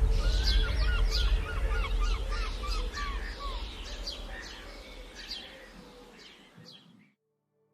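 Birds singing outdoors: a quick run of short repeated notes, about four a second, with higher chirps among them, over a low rumble. It all fades and cuts off to silence near the end.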